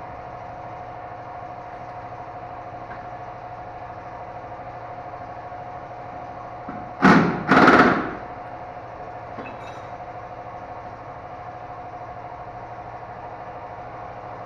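An engine idling steadily, with two loud knocks about half a second apart roughly halfway through.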